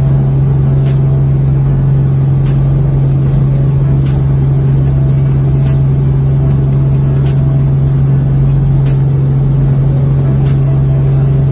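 Helicopter running: a steady, loud drone with a strong low hum, and a faint tick about every second and a half.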